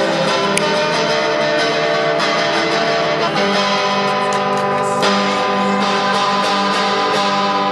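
Guitar music: sustained strummed guitar chords, changing chord about three seconds in and again about five seconds in.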